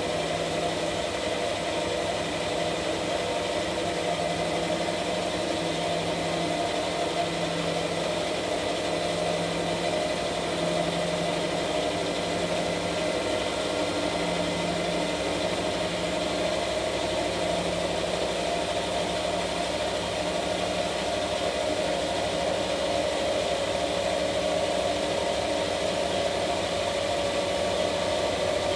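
Washing machine running: a steady motor hum with a regular pulse roughly every two seconds, and a tone that rises slightly near the end.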